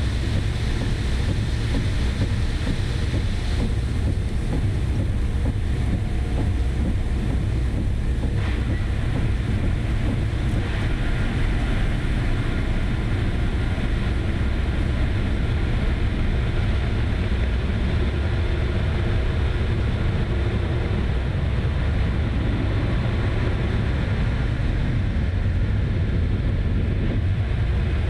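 Steady low rumble of a vehicle under way, with wind noise on the microphone.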